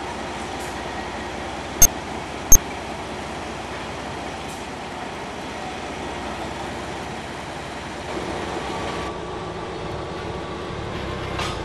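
A 750 mm narrow-gauge excursion train running, with a steady running noise and two sharp clicks about two seconds in.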